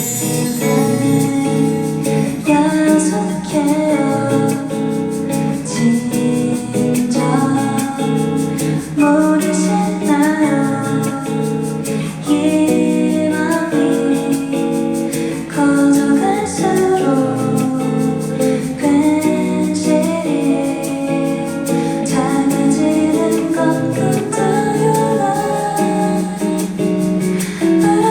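A singer performing a song live with guitar accompaniment, the voice carrying a melody over steadily played guitar.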